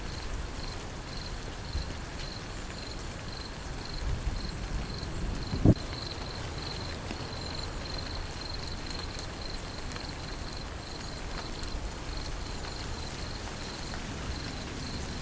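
Rain falling steadily, with insects chirping in a high, evenly pulsing trill throughout. A single short, low thump stands out about five and a half seconds in.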